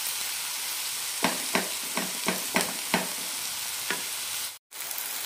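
Chopped onions and tomatoes sizzling in oil in a frying pan, with a wooden spatula scraping and stirring through them in about seven quick strokes in the middle. The sound drops out for a moment near the end.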